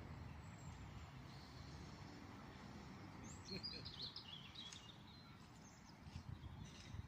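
Faint outdoor ambience with a low, uneven rumble, and a bird giving a short burst of chirps about three and a half seconds in.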